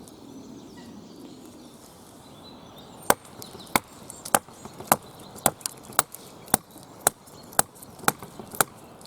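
A run of about eleven sharp knocks on wood, evenly spaced a little over half a second apart, starting about a third of the way in.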